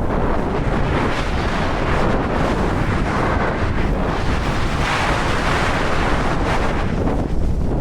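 Heavy wind buffeting the camera microphone: a constant low rumble with a louder hissing swell about five seconds in.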